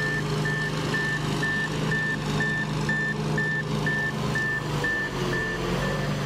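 Forklift's reversing alarm beeping about twice a second over its running engine, the beeps stopping near the end as the forklift stops backing up.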